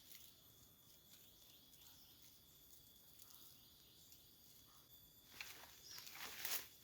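Quiet forest ambience with a steady high-pitched insect drone. Near the end comes a brief burst of rustling and crackling, like leaf litter or twigs being disturbed.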